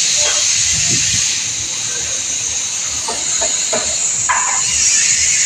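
Steady, loud hiss, with faint voices in the background a few times.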